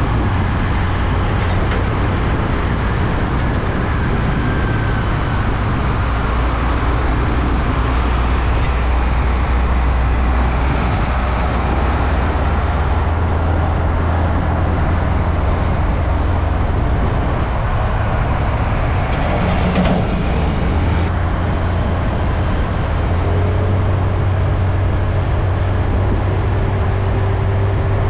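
Heavy trucks going by on a road: a steady low engine drone with tyre and road noise.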